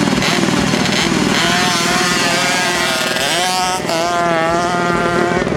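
Dirt-bike engine revving up, its pitch climbing a little past the middle, wavering, then cutting off near the end.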